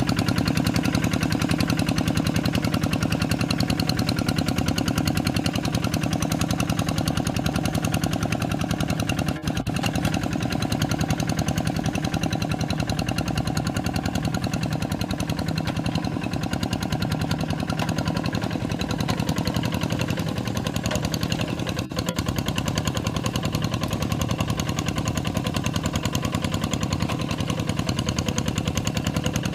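Kubota RD85DI-2S single-cylinder diesel engine of a Quick G3000 hand tractor running steadily with a fast, even beat.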